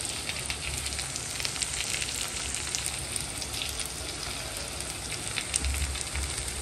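Cabbage and chana dal bhaji sizzling steadily in a hot kadhai, with light scattered crackles.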